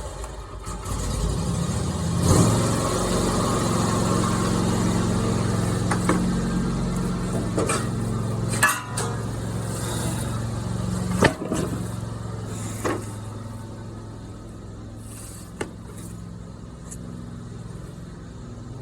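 A motor running steadily with a low hum, with a few sharp knocks and clicks over it; it gets quieter about two-thirds of the way through.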